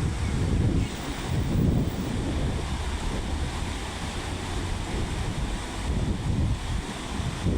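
A swollen mountain river rushing fast, in spate from rain in the upper catchment: a steady noise of water. Wind buffets the microphone.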